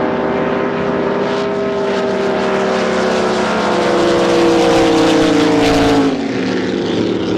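Drag boat engine running at full throttle, a dense multi-tone engine note growing louder with its pitch easing slowly downward. About six seconds in the pitch drops sharply and the level falls as the throttle is lifted at the end of the run.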